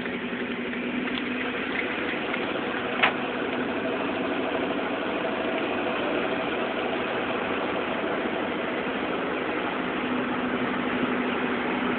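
Car engine running with a steady hum and road noise, heard from inside the cabin, with one brief click about three seconds in.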